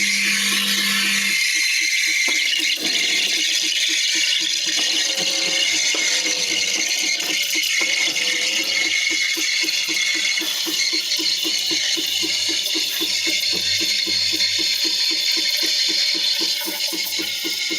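Jura X9 automatic coffee machine running, a steady rattling buzz with a hiss over it. A low hum stops about a second and a half in.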